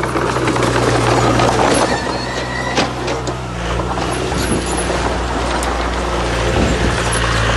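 Heavy diesel earthmoving machinery running steadily, with a dense clatter of stone and metal over it that eases after about four seconds, and a sharp knock near the middle.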